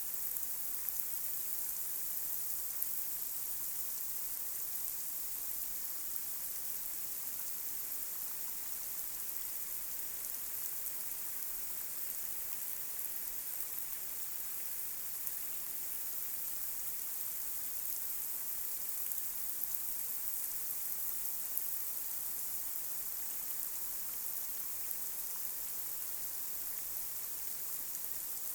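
Light rain falling on a street: a steady, even hiss with the odd sharper drop tap now and then.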